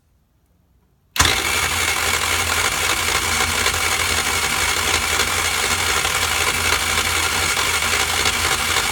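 Electric starter cranking a 49cc scooter engine, starting abruptly about a second in and turning it over steadily without it firing: the engine is getting no spark.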